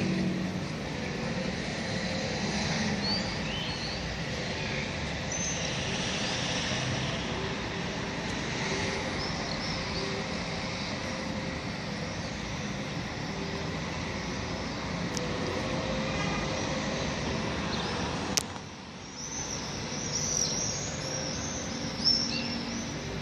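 Steady outdoor urban background rumble like distant traffic, with scattered high chirps above it. A sharp click about 18 seconds in is followed by a brief drop in level, and another click comes near the end.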